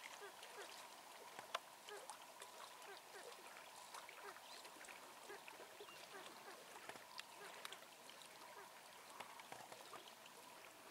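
Faint, soft clucking calls of a bird: many short notes at an irregular pace, with a few light clicks.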